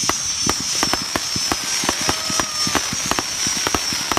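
Fireworks crackling: a rapid, irregular run of sharp pops and cracks, several a second, over a steady high-pitched whistle.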